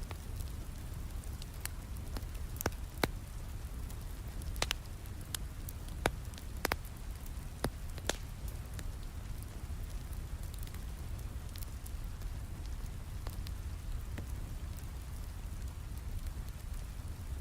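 Steady rain with a low rumble, and a wood fire crackling in scattered sharp pops, thickest in the first half.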